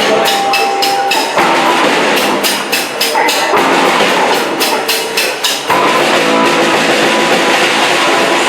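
Rock band playing live: drum kit and guitar with a steady beat.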